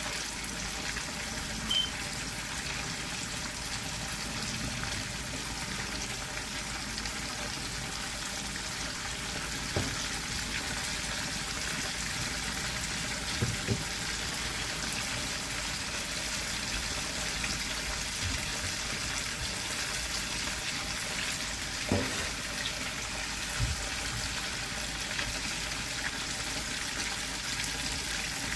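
Flour-coated chicken legs frying in hot oil: a steady sizzle, with a few brief clicks and knocks, the loudest about 22 seconds in.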